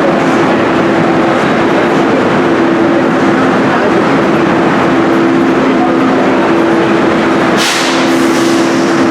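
A stationary train's machinery running with a loud, steady drone and an even hum. A short burst of hiss, like air being released, comes about three-quarters of the way through.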